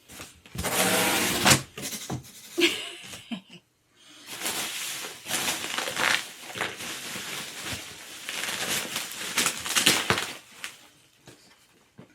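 Rustling, scraping and small knocks of gaming-chair packaging and parts being handled, in irregular bursts with a longer busy stretch through the middle.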